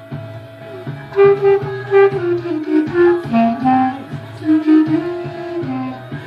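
Clarinet playing a melody of short held notes over a recorded backing track with a steady bass beat; the clarinet comes in about a second in.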